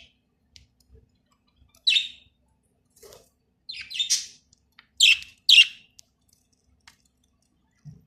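A pet bird giving short, high chirps in scattered bursts: one about two seconds in, a cluster around four seconds, and two loudest ones a half-second apart near five seconds.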